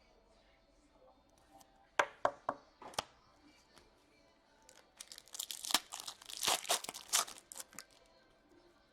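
A few sharp clicks, then about three seconds of crinkly tearing as a foil hockey card pack wrapper is ripped open.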